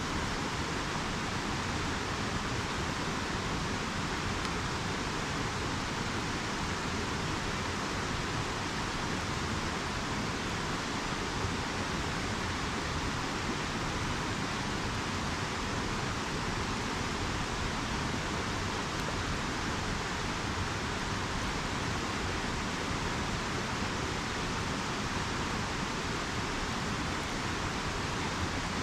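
Steady, unbroken rushing of a river or stream.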